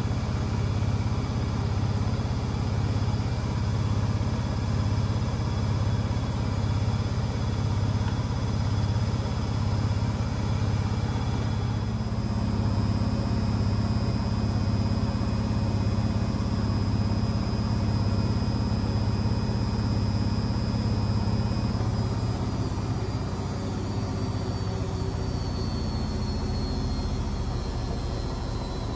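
Beko WMB 71643 PTE washing machine running, its brushed motor and drum giving a low hum that pulses about once a second. About halfway through a high motor whine comes in and holds, then slowly falls in pitch near the end as the motor slows.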